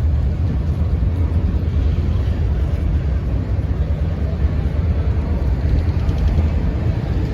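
Steady low rumble of the holiday train, with no distinct events standing out.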